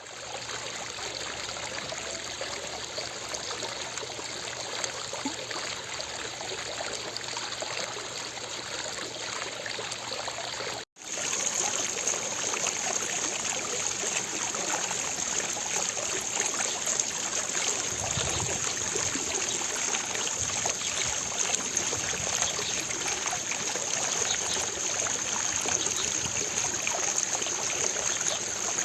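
Water from a fountain splashing steadily into its basin. About 11 seconds in, it cuts out for an instant and resumes louder and brighter, with a stronger hiss.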